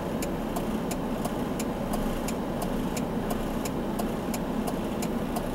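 Car engine idling while the car stands still, a steady low hum, with a fast even ticking at about four ticks a second over it.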